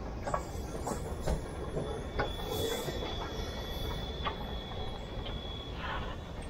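Short steam train with a passenger coach rolling slowly past: low rumble of wheels on rail, with scattered sharp clicks and a thin, steady high-pitched wheel squeal held for about three and a half seconds in the middle.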